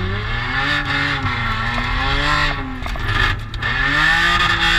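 Car engine under hard driving, its note rising as it revs up and then dropping off three times in a row as the driver accelerates, lifts and accelerates again.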